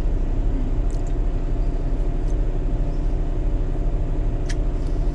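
Semi-truck engine idling with a steady low hum, and a few faint clicks over it.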